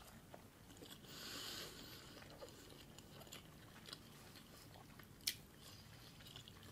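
Faint close-up chewing of a mouthful of tuna sushi: soft wet mouth sounds with small scattered clicks, and one sharp click about five seconds in.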